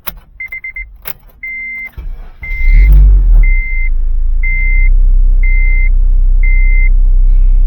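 Car engine cranked and catching about two and a half seconds in, then settling into a steady idle, while the car's warning chime beeps repeatedly at one pitch. Two sharp clicks come before the engine starts.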